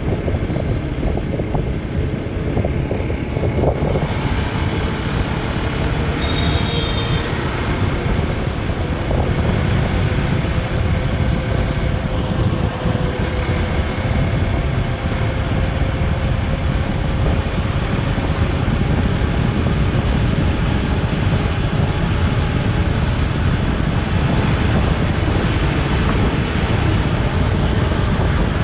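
Motorcycle riding steadily, with engine and wind noise on the helmet-mounted microphone. A brief high beep sounds about six and a half seconds in.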